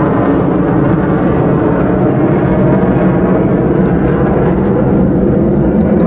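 Steady, loud rush of wind on the microphone of a bike-mounted action camera while riding, with no breaks or single knocks standing out.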